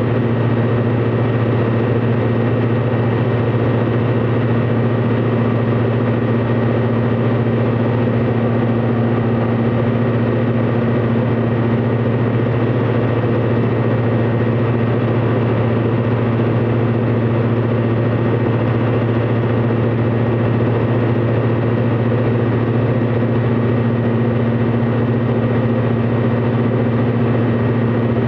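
Light aircraft's piston engine running steadily at a constant power setting, a deep even drone with no change in pitch or level.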